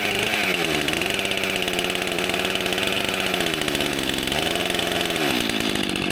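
Stihl MS261 C-M two-stroke chainsaw running to warm up after a cold start in deep frost. Its engine speed wavers briefly near the start and again about four seconds in, and holds steady in between.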